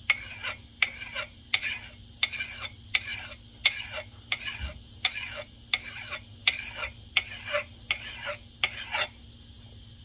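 Hand file rasping across the steel of an axe head in steady, even strokes, about one and a half a second, taking metal off one end of the edge bevel. The strokes stop about nine seconds in.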